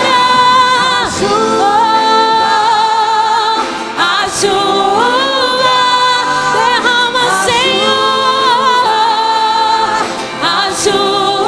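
Worship singers performing a gospel song over music, with long held notes that waver in pitch.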